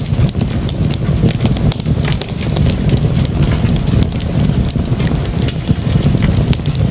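Fireplace fire crackling: a steady low rumble under many irregular sharp pops and snaps.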